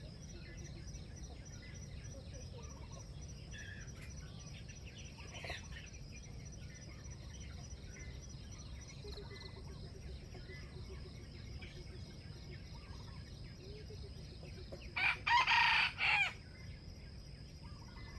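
A wild junglefowl rooster crows once near the end: a short crow in a few broken segments. Faint small-bird chirps and a steady high insect drone run beneath it.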